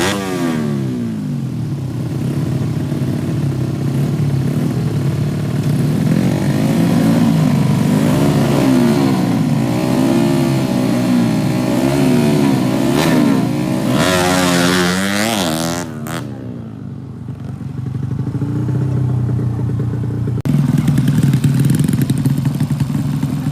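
Drag-race motorcycle engines revving up and down in repeated blips. About fourteen seconds in, one rises steeply as a bike accelerates hard, and its sound cuts away suddenly; a steady engine note follows near the end.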